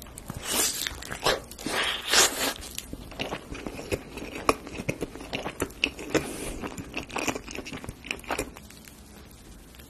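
A person bites into a baked egg-and-bacon bread cup and chews it. Several loud bites come in the first two seconds or so, then a long run of small chewing clicks that tails off about a second before the end.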